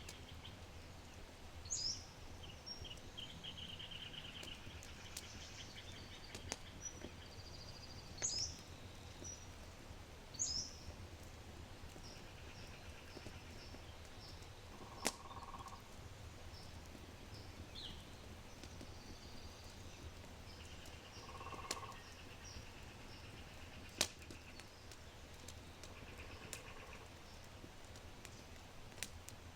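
Low oak fire crackling in a brick fireplace, with a few sharp pops, while small birds chirp and trill around it: a few high, quick downward-sweeping chirps in the first half and a couple of short lower calls later.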